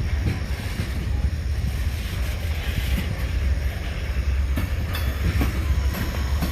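Freight train of tank cars rolling past: a steady low rumble from the cars and wheels, with a click from the wheels every so often.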